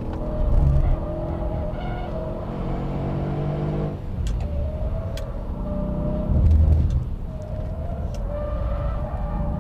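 Mercedes-Benz E63 AMG S-Model's twin-turbo V8 running hard on a track lap. It eases off about four seconds in and then pulls again, with a couple of short louder low surges and a few light clicks.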